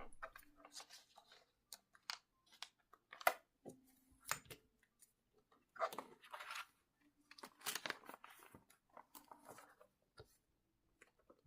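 Irregular crisp crunching and crinkling sounds close to the microphone, coming in quick clusters with short pauses.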